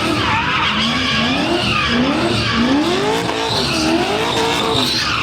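Car engine revving up and down repeatedly while its tyres squeal continuously under wheelspin.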